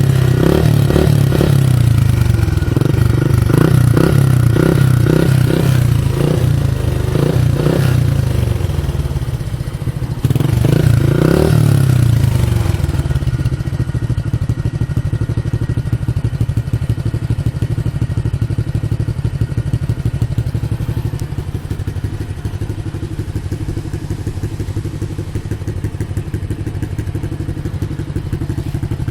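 Modenas GT128 two-stroke motorcycle engine running through an aftermarket E-Power Belang exhaust muffler, blipped in a series of quick revs for roughly the first half, with one bigger rev near the middle, then settling to a steady idle.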